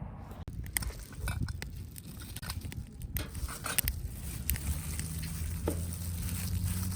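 Cooking over a wood campfire: scattered sharp crackles and clicks from the fire and cookware. A low steady hum comes in about five seconds in.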